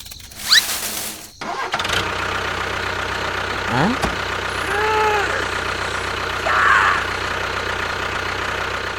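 A short noisy burst, then an engine starts about two seconds in and runs steadily, with a few brief higher tones over it near the middle.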